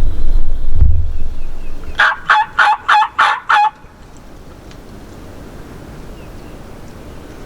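Wild turkey gobbler gobbling once, loud and close: a rapid rattling run of about six notes lasting under two seconds. A low rumble comes before it in the first second or so.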